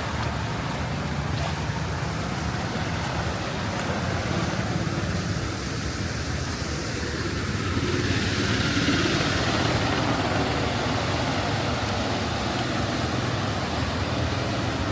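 Traffic on a flooded street: vehicle engines running under a steady rushing wash of water, which swells about eight seconds in as a vehicle pushes through the flood.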